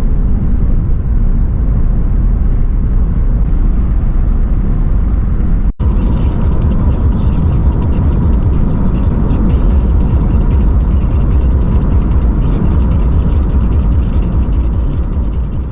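Loud car engine and exhaust noise, a dense low rumble, broken by a brief cut about six seconds in and then continuing with a crackle on top.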